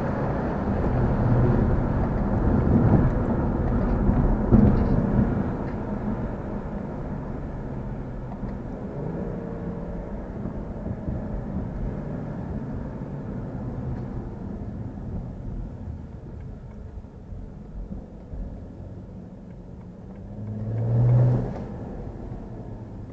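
Car engine and exhaust under load, then easing off to a steadier cruise. A brief rise in engine sound comes near the end.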